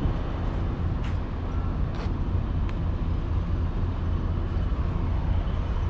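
Semi truck's diesel engine idling steadily, a continuous low rumble, with a few faint clicks over it.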